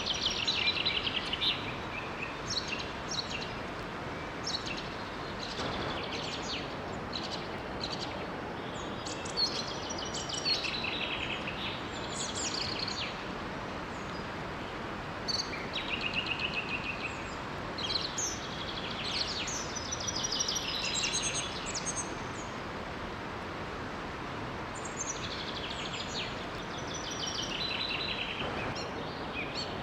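Several birds chirping and singing in short, repeated trills over a steady rush of running water.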